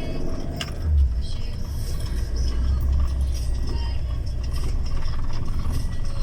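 A vehicle's engine and running gear droning steadily, heard from inside the cab while driving, with a short bump about a second in.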